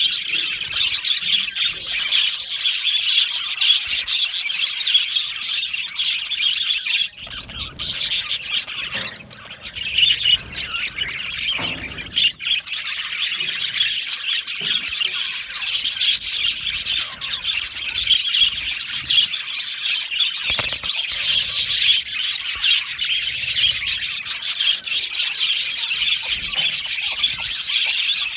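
A flock of budgerigars chirping and warbling together, with many overlapping high-pitched chirps in a constant chatter.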